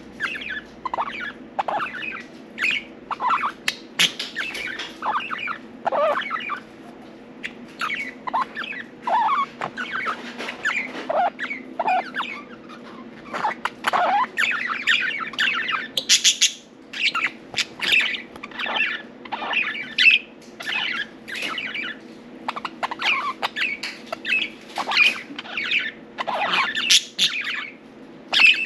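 Budgerigars chattering: a steady stream of quick chirps and squawks from several birds.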